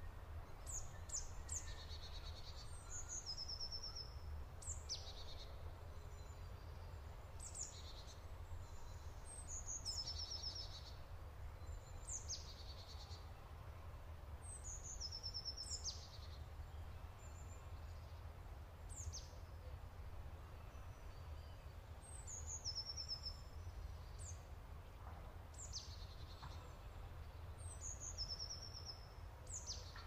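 Prinia singing a high phrase repeated every two seconds or so: a sharp downward-sweeping note followed by a quick run of short notes, over a steady low rumble.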